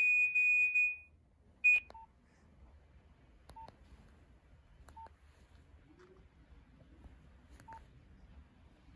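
Nokia 1112 mobile phone: a loud, high-pitched beeping alert tone stops about a second in. Then come keypad button clicks, four of them each followed by a short lower key beep, a couple of seconds apart.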